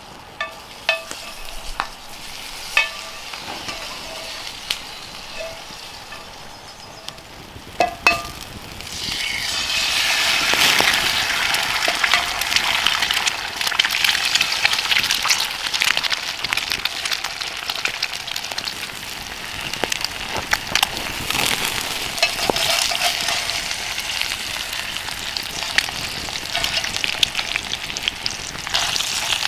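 Food frying in a hot pan or on a grill: a few scattered clicks at first, then loud, steady sizzling from about nine seconds in as the food goes onto the heat.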